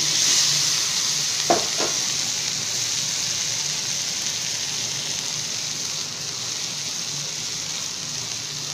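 Boiled chickpeas and cut potato sizzling as they fry in oil in a kadai on a gas stove, a steady hiss that eases slightly toward the end. Two short knocks sound about a second and a half in.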